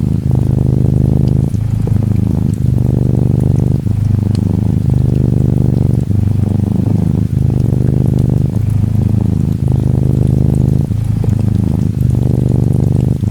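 Close-up cat purring from an orange tabby Norwegian Forest Cat kitten, a steady low rumble that breaks briefly about once a second with each breath. Faint rain ticks sit over it.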